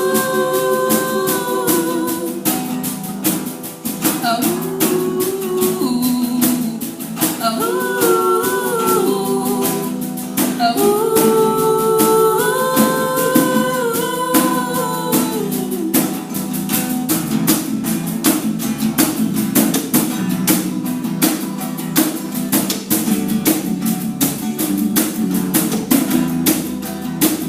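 Girls' voices singing held, wordless vowel notes in harmony over a strummed guitar; about halfway through the voices drop out and the guitar strumming carries on alone.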